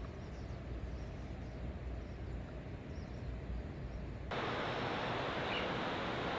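Steady rush of stream water, low and rumbling at first, then switching abruptly to a louder, brighter rushing about four seconds in. Faint bird chirps sound above it.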